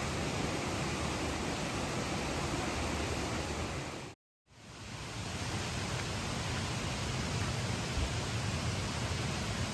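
A steady, even rushing noise with no distinct events. A little over four seconds in it cuts out completely for a moment, then fades back in.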